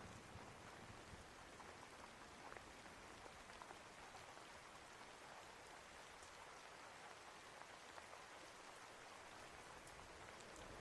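Steady, faint rain falling, an even hiss with scattered small drop ticks.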